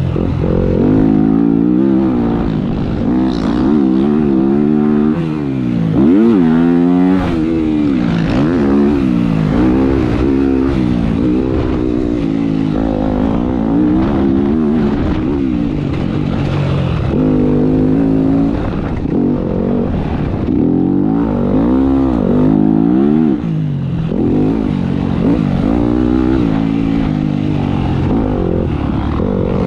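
Motocross dirt bike engine ridden hard, revving up and backing off again and again, its pitch rising and falling every second or two with a steep climb about a third of the way in.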